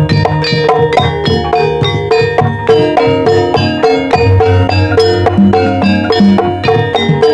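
Javanese gamelan music in the ebeg style, an opening gending: quick, even strikes on tuned metallophones with percussion beneath, a low sustained tone joining about halfway through.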